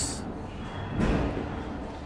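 A single dull knock about a second in, over faint background noise; no engine is running.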